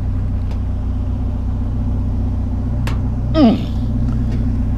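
Vehicle engine idling steadily. Near the middle there is one sharp click, and just after it a short falling grunt of effort.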